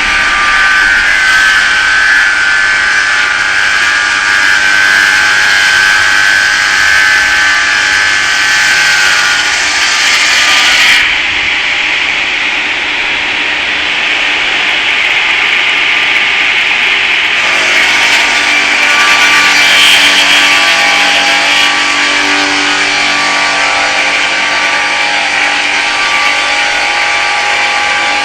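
Homemade circular-blade sawmill with an 11 kW motor sawing through an oak log: a continuous loud whine and rasp of the disc blade in the wood. The high rasp drops back for several seconds near the middle, then comes in again.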